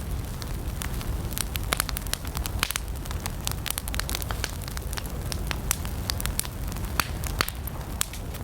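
Wood campfire crackling, with frequent sharp, irregular pops and snaps over a steady low rumble.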